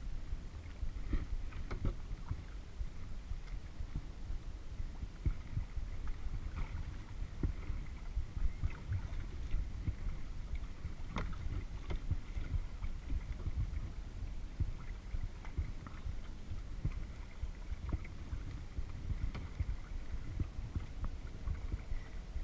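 Kayak being paddled, picked up by a GoPro on the boat: a steady low rumble of water and hull with scattered short knocks and splashes, one sharper knock about halfway through.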